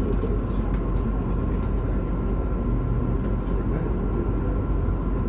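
Inside a MAZ-216 articulated city bus under way: a steady low rumble of engine and road noise fills the cabin, with a faint steady high whine running through it.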